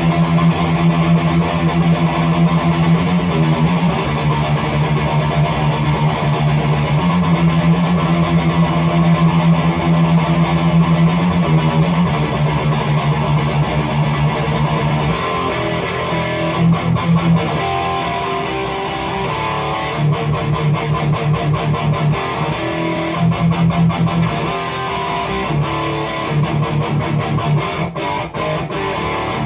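High-gain electric guitar through a REVV G3 distortion pedal on its tight blue setting, with no noise gate, playing palm-muted metal riffs: held low chugs in the first half, then faster gallop patterns.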